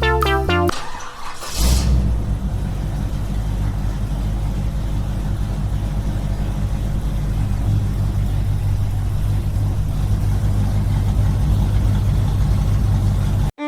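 A small engine running steadily at one constant speed, with a low even drone, after a short stretch of background music at the start. It cuts off abruptly just before the end.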